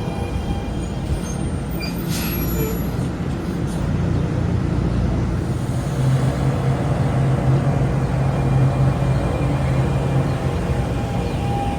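NJ Transit Arrow III electric multiple-unit train running with a steady electric hum and whine. A short hiss of air comes about two seconds in, and the hum swells about six seconds in.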